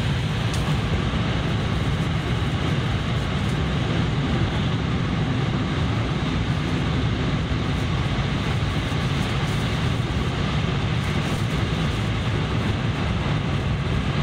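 Steady low rumble and rushing noise of a Tohoku Shinkansen Hayabusa train running at high speed, heard inside the passenger cabin.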